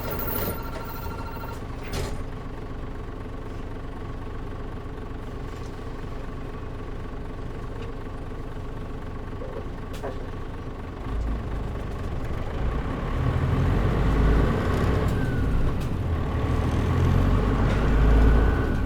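Mitsubishi Fuso KL-MP37JM city bus diesel engine heard from inside the cabin: it runs steadily at low revs for about eleven seconds, then grows much louder and deeper as it is put under load and the bus drives off. A short electronic beeping tone sounds in the first second or so.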